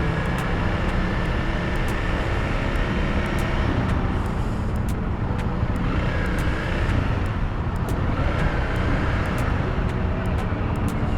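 Motorcycle engine running with a steady low rumble, mixed with road and wind noise.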